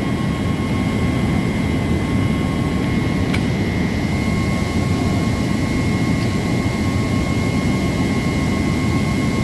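Steady, loud machinery drone with a constant high whine running through it, unchanging throughout.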